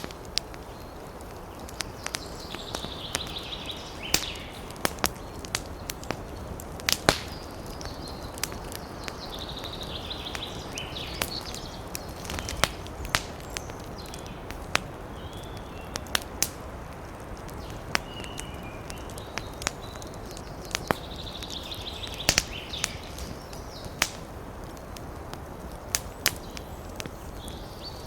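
Wood fire crackling in a fireplace: a steady low rush of burning with sharp, irregular pops and snaps every fraction of a second to a second, and a few brief high-pitched sounds now and then.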